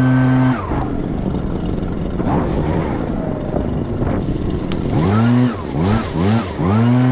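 Echo PB-9010T backpack leaf blower's two-stroke engine at full throttle, dropping to idle about half a second in. Near the end it is revved up several times in quick swoops, then held at full throttle again.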